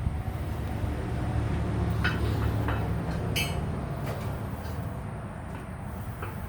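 Massey Ferguson GC1710 subcompact tractor's diesel engine running steadily, with a few sharp metallic clinks about two to three and a half seconds in as backhoe parts are fitted.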